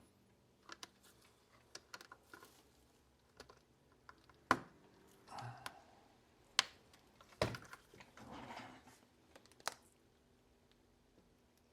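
Hand tools clicking and knocking against the plastic housing of a robot vacuum, with two brief scraping rustles, while a tight, oversized screw is worked loose. The clicks are irregular, with a few louder knocks around the middle.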